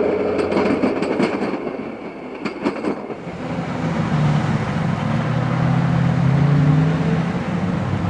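A passing train. For about the first three seconds its wheels click over the rail joints. Then a steady diesel locomotive engine drone takes over and grows louder.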